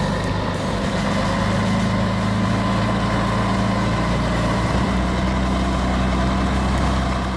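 Heavy diesel engine of a logging machine running steadily under low load, a deep, even drone with a constant pitch. It stops abruptly at the very end.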